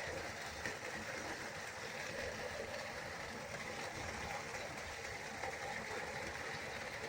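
Waterfall: a steady rushing of falling water, an even hiss with no changes.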